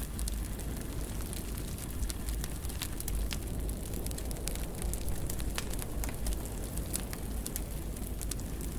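Wood fire burning in a fireplace: a steady low rumble and hiss of the flames, with frequent sharp, irregular crackles and pops.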